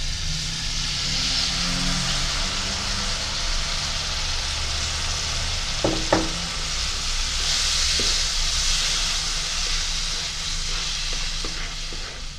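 Tamarind water sizzling as it hits onions and curry powder frying in oil in a nonstick wok, a steady hiss that swells twice. A metal ladle clicks against the pan a couple of times about halfway through as the mixture is stirred.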